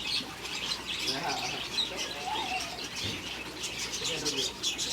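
A flock of lovebirds chirping rapidly and continually, many short high calls overlapping, with a few lower warbling calls about one, two and four seconds in.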